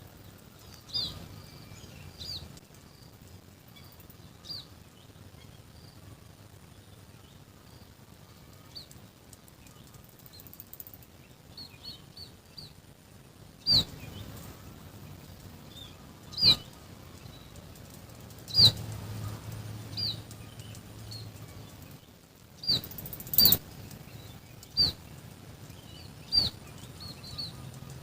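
Small birds chirping: short, high, downward-sliding chirps repeated through the whole stretch. A few sudden sharp sounds, louder than the chirps, break in now and then, two of them close together about 23 seconds in.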